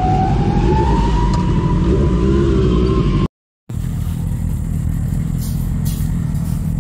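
Motorcycle engine running under way, its pitch rising slowly as it accelerates over a dense low rumble. About halfway through the sound cuts off for a moment, then returns as a steadier, lower rumble.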